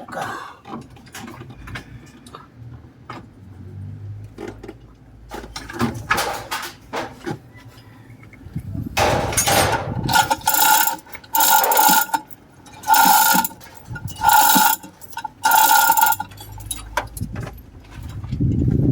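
A hand ratchet wrench clicking in a series of about five back-and-forth strokes, evenly spaced at a little over a second apart, during work on a Hyundai H100 engine. Scattered light metal tool clinks come before the strokes.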